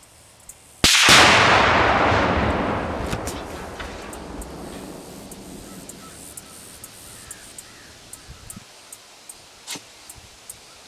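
A microwave oven blown up by an explosion set off by a rifle shot: one sudden loud blast about a second in, then a boom that dies away over several seconds.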